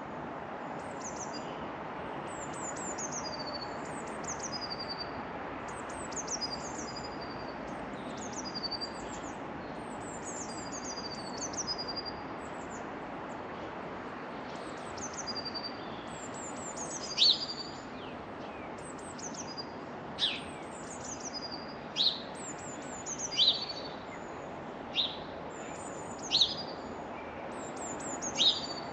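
Small garden birds calling: repeated high, falling chirps. From about halfway through come louder, sharp downward calls every second or two, over a steady background of outdoor noise.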